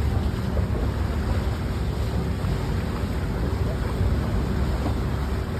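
Tour boat's engine running steadily with a low rumble, with wind buffeting the microphone and water rushing past.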